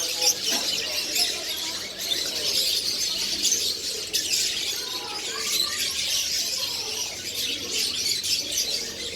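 Many caged birds chirping at once in a dense, steady chorus of high calls.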